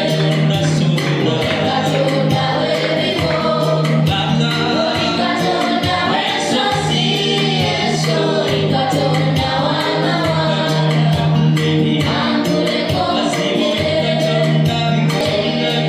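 Gospel choir singing over steady rhythmic accompaniment with tambourine.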